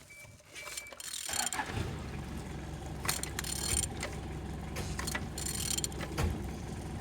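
A20DTJ 2.0 CDTi diesel engine being turned over: a steady mechanical whirr with a fast, even pulse and scattered metallic clicks and rattles, starting about a second and a half in. It turns freely, a sign the engine is not seized.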